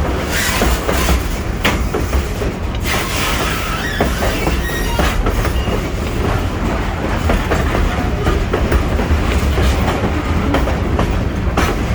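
Freight train rolling by: a steady low rumble with the clatter of wheels over rail joints, and a few faint high wheel squeals a few seconds in.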